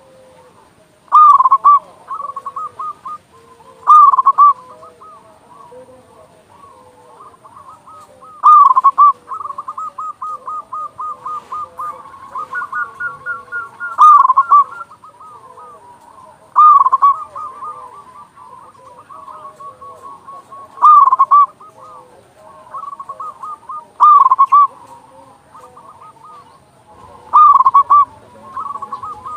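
Local zebra dove (perkutut) cooing: loud bursts of rapid, quickly repeated coo notes every three to five seconds, with softer trilling coos running between them.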